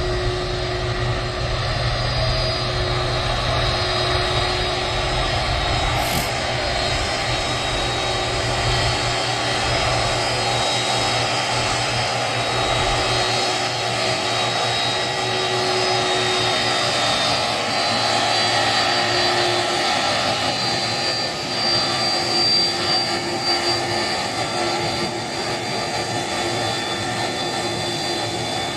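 Jet airliner engines running continuously nearby: a steady roar with a whine of several held tones. A low rumble underneath fades out about halfway through.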